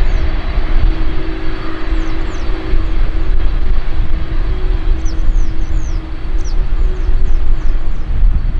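Jet airliner engine noise: a loud, steady low rumble with a constant hum. Small birds chirp with short, falling calls over it, most of them in the second half.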